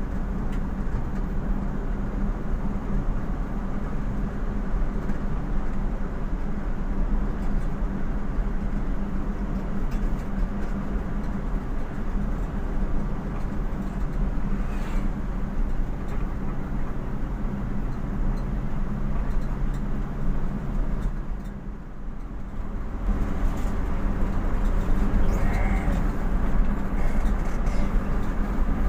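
Engine and road noise of a moving vehicle heard from inside its cab, a steady drone that dips briefly about two-thirds of the way through, then comes back louder as it picks up speed.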